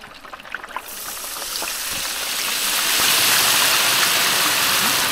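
Whole chicken going into about 180 °C cooking oil in a cast-iron cauldron: the oil starts sizzling about a second in and builds to a loud, steady deep-frying hiss.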